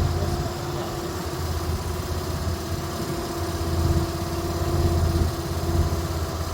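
Typhon Stomp mini skid steer's engine running steadily, its level swelling and easing slightly.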